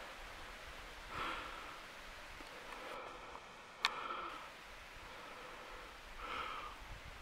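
Faint rustling with two soft swells, and one sharp click a little before the middle.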